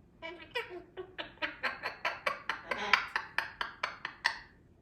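A pet parrot giving a rapid run of short, clipped, repeated calls, about five a second for roughly four seconds.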